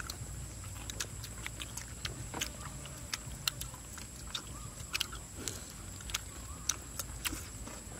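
People chewing roasted beef with their mouths close to the microphone: irregular wet smacking and mouth clicks.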